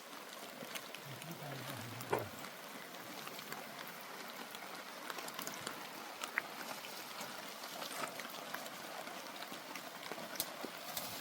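Steady rain falling, with many small scattered drop ticks. A brief low sound about a second in ends in a sharp knock about two seconds in.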